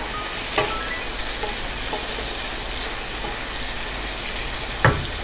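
Chicken, onion, capsicum and tomato sizzling as they fry in a non-stick pan while a spatula stirs them. The spatula knocks against the pan about half a second in and loudest near the end.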